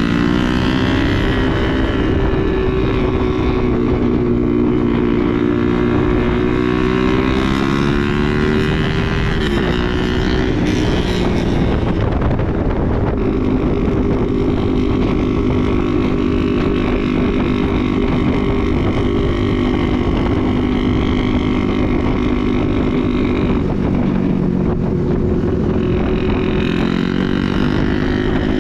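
Motorcycle engine running under way, its pitch rising and falling a few times with changes of speed, with wind rumbling on the microphone.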